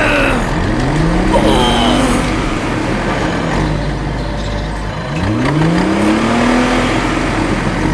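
A motor revving up twice, each time rising in pitch over about a second and a half and then levelling off, over a steady low hum.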